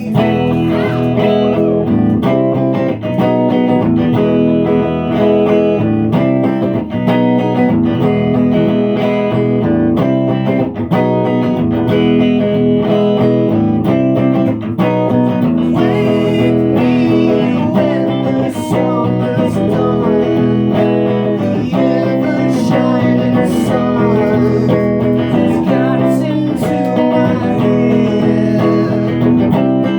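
Electric guitar played live through a loop station, layered parts: held notes ringing under quick picked notes.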